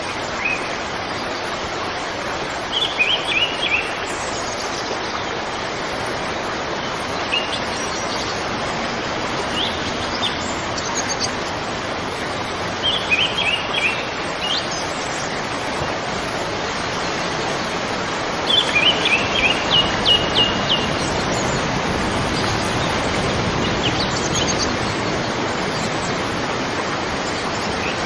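Songbirds chirping in short, quick phrases every few seconds, the busiest run of notes about two-thirds of the way in, over a steady rushing background noise.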